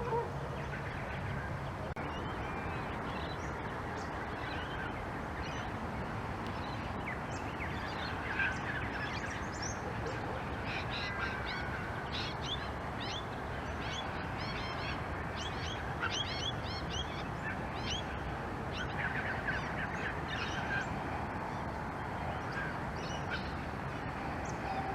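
Small birds chirping, many short high calls coming in quick runs over steady background noise.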